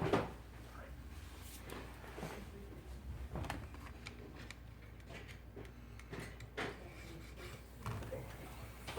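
Faint scattered clicks and light knocks of small tools and phone parts being handled on a repair bench, over a low steady hum.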